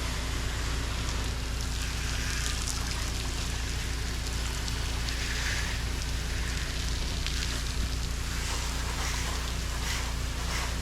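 Pressure washer spraying water with a steady hiss that swells and fades every second or two as the wand sweeps, over the constant low hum of the rig's gas engine and pump. The spray is downstreamed sodium hypochlorite solution being laid onto the screen panels to kill mold.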